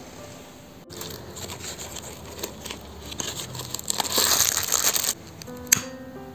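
Crinkling and rustling of handled packaging, growing louder for about a second and then stopping abruptly. A single sharp click follows. Soft background music sits under it.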